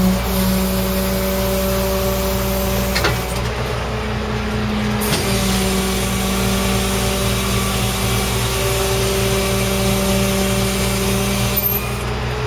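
Tow truck's engine running steadily while its hydraulics lower the wrecker's underlift stinger. A hiss plays over the engine for most of the stretch, breaks off for a couple of seconds about three seconds in, and there are short clicks as it stops and restarts.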